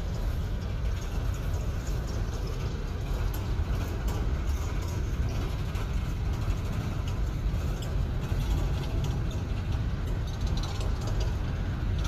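Train rolling past: a steady low rumble with scattered clicks and rattles.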